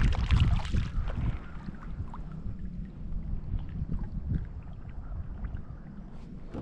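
Wind rumbling on the microphone aboard a fishing kayak, loudest in the first second, with a few faint knocks from the boat.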